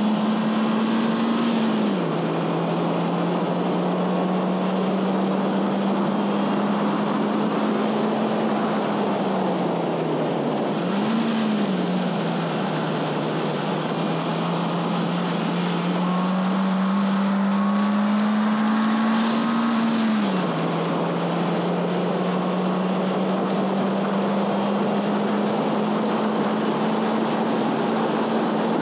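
2011 Honda Fit Sport's 1.5-litre four-cylinder engine running hard at high revs. Its pitch climbs slowly under load and drops sharply at upshifts about two and twenty seconds in, with a fall and a quick throttle blip around ten to eleven seconds in. Steady road and wind noise sit under the engine throughout.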